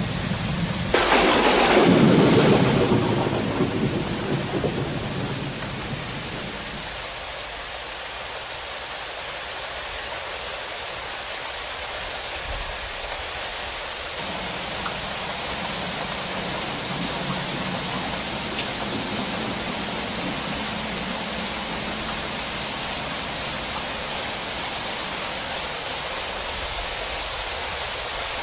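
Heavy rain falling steadily, with a sudden thunderclap about a second in that rumbles away over the next few seconds.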